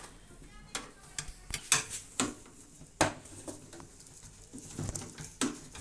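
Scattered sharp clicks and knocks of tools and sheet-metal parts being handled while a microwave oven is taken apart, about seven in all, each short and separate.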